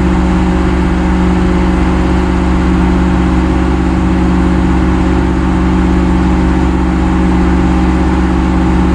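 A heavy equipment engine running steadily at a constant speed, a loud even drone with a strong low hum and no change in pitch.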